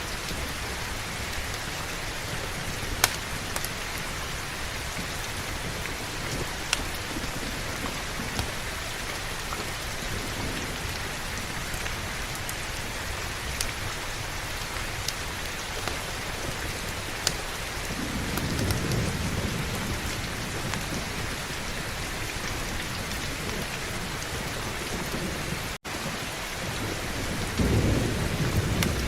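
Steady heavy rain with a few sharp pops scattered through it, and two low rolls of thunder: one about two-thirds of the way in and another building near the end. The sound cuts out for an instant shortly before the second roll.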